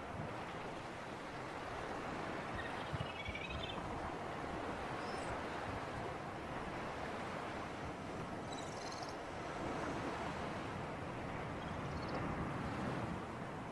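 Steady rushing of sea breeze and surf at the shore. A few short, high bird chirps are scattered through it, the busiest a little after the middle.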